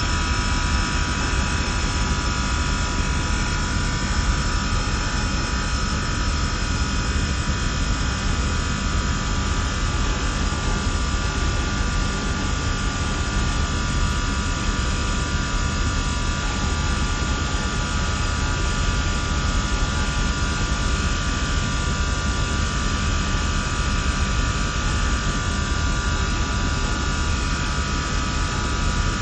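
HVAC chiller-plant machinery running steadily: a constant low rumble and hiss with a steady high whine on top.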